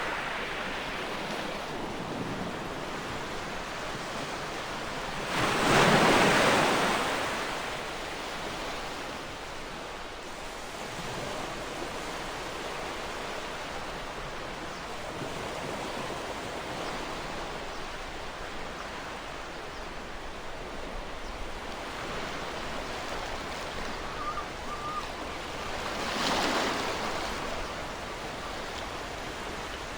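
Ocean surf: a steady wash of water with a wave breaking loudly about six seconds in and another, smaller one near the end.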